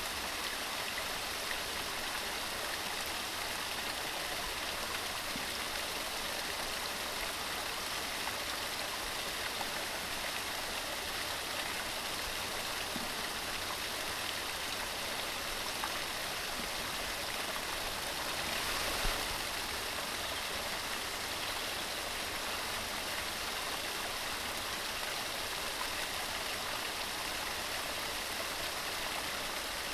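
Mountain stream running in a steady, even rush of water, swelling briefly about two-thirds of the way through.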